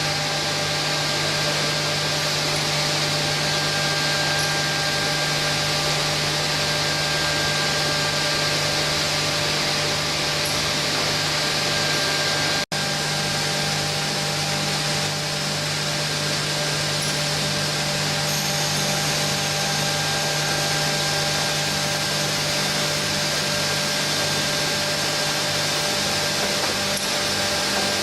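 CNC door frame grooving machinery running steadily: a continuous motor whine with several held tones over a broad hiss. The sound cuts out for an instant just under halfway through, then carries on as before.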